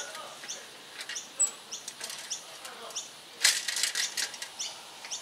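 A bird chirping over and over, one short high note about twice a second. About three and a half seconds in comes a quick run of sharp metallic clicks, the loudest sound here, from handling the bicycle's rear wheel.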